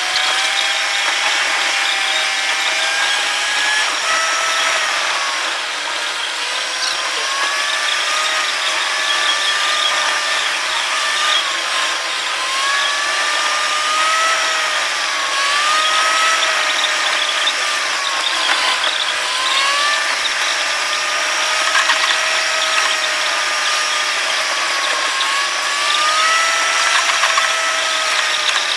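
Car engine heard from inside the cabin, its pitch gliding up and down with the revs over road noise; sped up along with the footage, the engine note sits unnaturally high, like a drill's whine.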